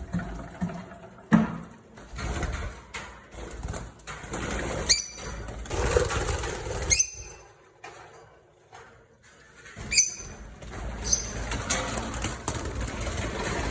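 Lovebirds chirping: four short, sharp, high-pitched calls spread through, with scratchy rustling and clicks in between.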